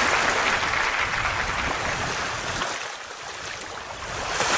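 Loud rushing of water, strongest at the start, easing off around three seconds in and swelling again near the end.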